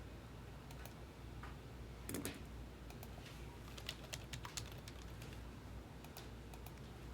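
Faint, irregular typing on a computer keyboard, with a slightly louder knock about two seconds in.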